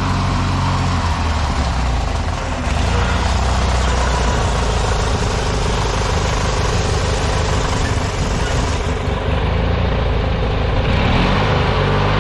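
Murray lawn tractor's small engine running as it is driven about, its pitch shifting a few times as the engine speed changes.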